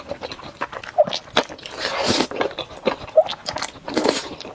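Close-miked mouth eating sounds: chewing sauce-coated noodles with wet smacking clicks, and two longer breathy slurps about halfway through and near the end.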